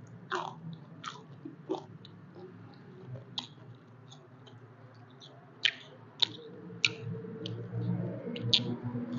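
Close-miked chewing and biting of roast chicken, with scattered sharp crunchy clicks and wet mouth sounds, several louder crunches in the second half.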